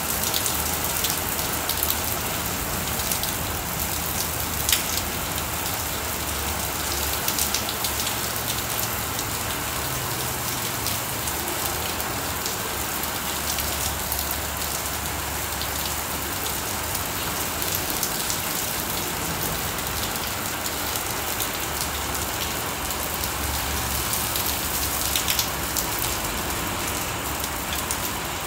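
Heavy rain pouring steadily onto a concrete driveway, shrubs and roofs: a constant hiss with a few sharp ticks of drops striking close by.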